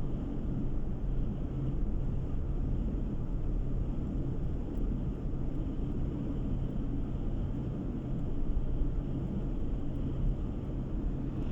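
Car driving along a road, heard from inside the cabin: a steady low rumble of tyre noise and engine, with a constant low hum.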